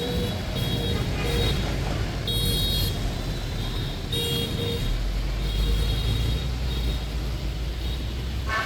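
Busy street traffic in the rain: a steady low engine rumble under a hiss of rain and wet roads, with several short, high vehicle horn beeps scattered throughout.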